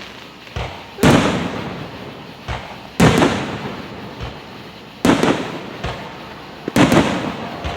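Aerial firework shells bursting about every two seconds, four loud sharp bangs each followed by a long rolling echo, with smaller pops between them.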